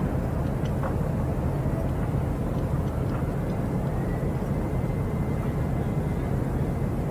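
Steady low rumble of a vehicle driving, engine and road noise, with a faint high whine joining about halfway through.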